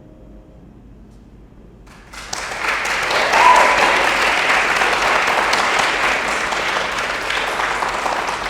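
Audience applause for a finished song, breaking out suddenly about two seconds in after the piano's last chord dies away and continuing strongly. A short whistle sounds from the audience about a second after the clapping starts.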